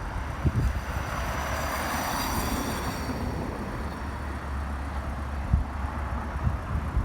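A vehicle going by on the street, swelling and fading about two seconds in, over wind rumbling on the microphone.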